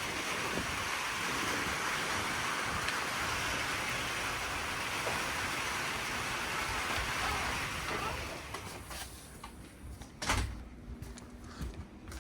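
Strong wind rushing steadily after a storm, dying down about eight seconds in; a single sharp knock follows a couple of seconds later.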